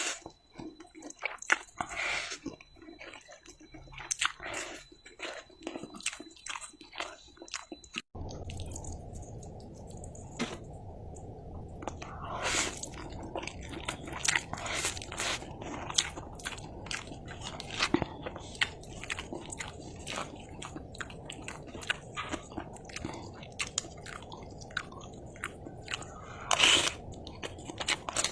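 Close-miked mukbang eating sounds: chewing and biting mouthfuls of fried instant noodles with egg and chillies, with many short crunchy, wet clicks. About eight seconds in, a low steady hiss comes in beneath the chewing.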